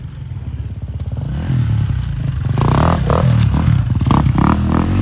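Off-road motorcycle engine revving, its pitch rising and falling repeatedly, getting louder about halfway through.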